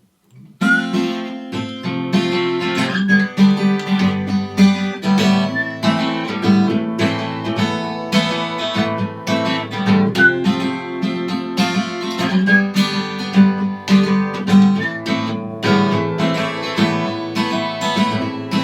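Acoustic guitar playing the song's introduction, strummed and picked chords in a steady rhythm, starting about half a second in.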